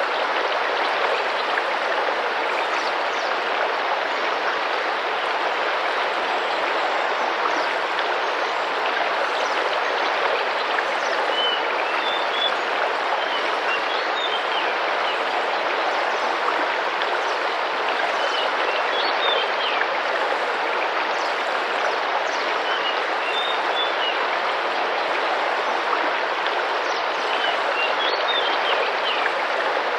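Steady rushing and splashing of a tropical rainforest river, with small bird chirps in brief clusters every few seconds.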